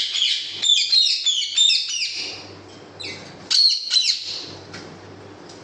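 Small birds chirping in quick, high, repeated calls, loudest for the first two seconds with a second short burst about three and a half seconds in, over a low steady hum.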